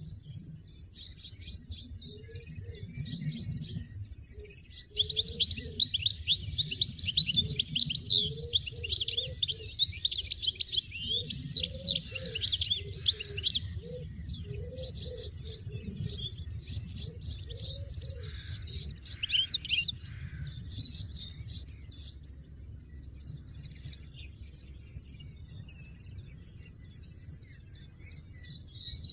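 European goldfinches chirping and twittering in quick high notes, with a dense run of rapid chirps starting about five seconds in and lasting nearly ten seconds.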